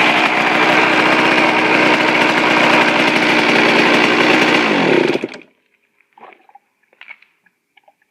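Freshly rebuilt Suzuki RM125 two-stroke single-cylinder engine running steadily at an idle set a little high, then winding down in pitch and stopping about five seconds in. A few faint ticks follow.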